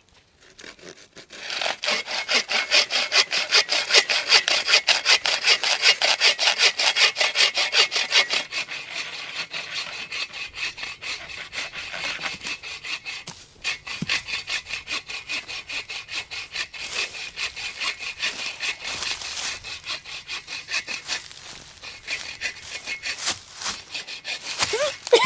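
Silky Gomboy folding pull saw cutting through dead wood in quick, steady back-and-forth strokes, about three a second. The strokes are loudest for the first several seconds, then go on more softly, with a brief pause about halfway through.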